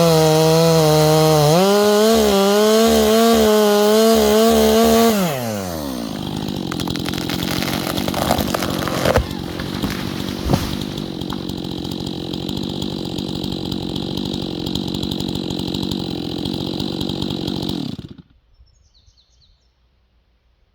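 Chainsaw at full throttle, its pitch dipping and recovering as it works, then dropping to idle about five seconds in. It idles with two sharp knocks in the middle and is then shut off, cutting out suddenly near the end.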